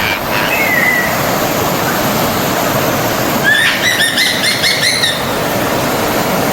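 Forest stream water rushing steadily, with a bird calling over it: a short slurred note just after the start, then a quick run of about eight repeated chirps from about three and a half to five seconds in.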